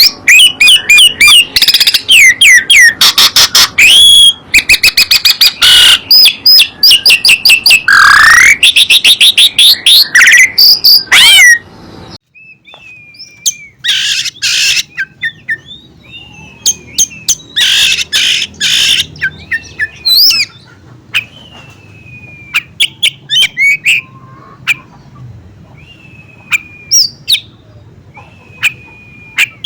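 Songbirds singing. For about the first twelve seconds there is a loud, dense stream of rapid warbling notes and trills. This cuts off suddenly and gives way to sparser chirps, short sliding whistles and quick rattling trills.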